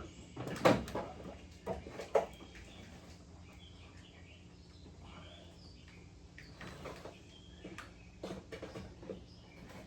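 Irregular knocks and scrapes of a shift cable being pushed and worked through a tight gap past a heat shield under a car, with a few sharp knocks early and a cluster near the end. Faint short chirps in between.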